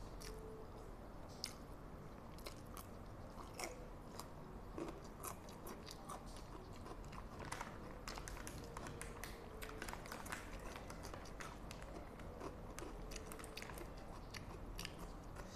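A person chewing a mouthful of spicy instant fried noodles close to a clip-on microphone: steady soft chewing with many small, sharp wet mouth clicks and smacks.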